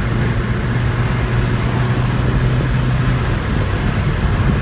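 Car driving at speed, its engine and road noise heard from inside the cabin: a steady low engine hum over a rushing haze, the hum fading about three seconds in.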